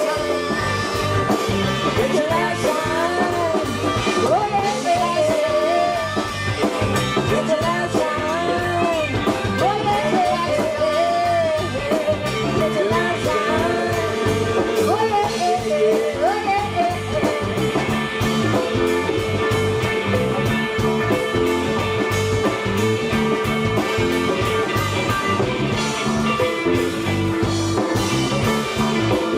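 Live band music with a steady drum beat and guitar. A wavering lead melody bends in pitch through roughly the first half, then the band carries on with held notes.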